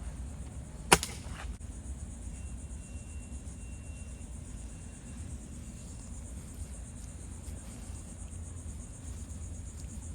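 A single sharp shot from a low-powered air rifle about a second in, followed by a fainter crack about half a second later.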